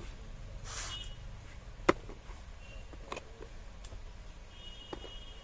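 A few sharp clicks over a low steady hum, the loudest about two seconds in and two fainter ones later, with a brief hiss about a second in and faint high tones near the end.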